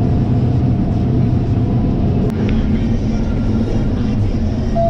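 Combine harvester running steadily while harvesting corn, a constant low mechanical hum.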